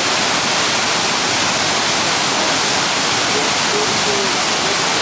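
A waterfall pouring: a loud, steady rush of falling water that doesn't change. Faint voices sound under it about three to four seconds in.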